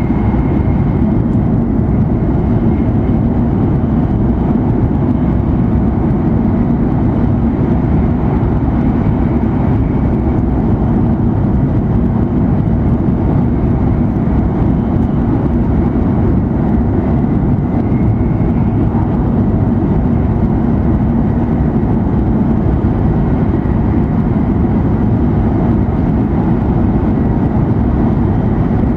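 Cabin noise inside an E7 series Shinkansen running at high speed: a loud, steady low rumble, with a faint high tone that comes and goes.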